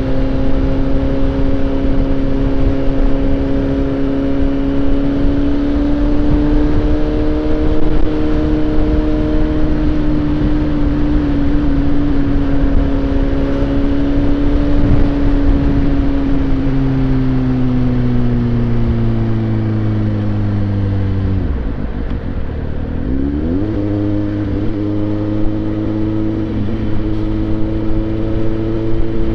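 Suzuki GSX-S750's inline-four engine pulling steadily under way, over a constant rush of wind and road noise. Its pitch slowly rises, eases down, then drops sharply about three quarters of the way through and climbs back to a steady cruise.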